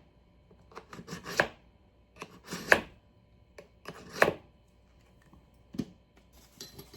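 Kitchen knife blade drawn through a knife sharpener in repeated strokes, three main short rasping scrapes about a second and a half apart with a few fainter ones between.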